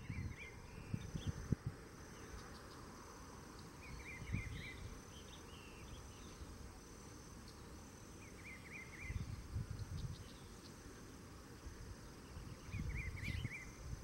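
A small bird repeating a short, quick run of chirps about every four and a half seconds, four times, over a faint steady high insect trill, with low rumbling noise at times.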